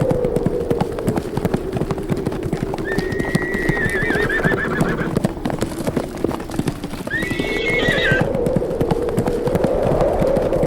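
Horses galloping, their hoofbeats a dense irregular pounding, while a horse whinnies twice with a quavering call, about three seconds in and again near eight seconds. Wind howls steadily underneath, rising and falling.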